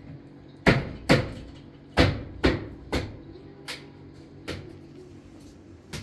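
A series of sharp knocks, about eight spread irregularly over six seconds, with the loudest ones in the first three seconds.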